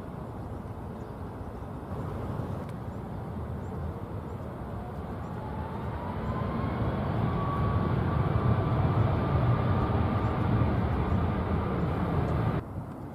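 Jet airliner's engines: a rumble that grows louder from about halfway in, with a whine that rises and then holds, cutting off suddenly near the end.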